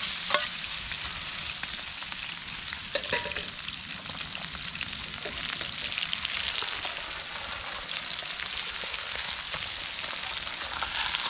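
Food sizzling and crackling in frying pans over a campfire, browning to the point of caramelizing.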